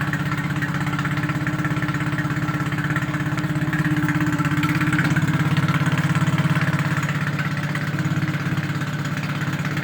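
Yamaha F25 four-stroke outboard motor running steadily at idle, with an even low pulse.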